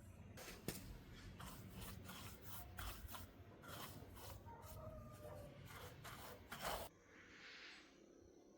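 Faint scraping and rubbing with a run of short clicks, stopping about seven seconds in, then a soft hiss.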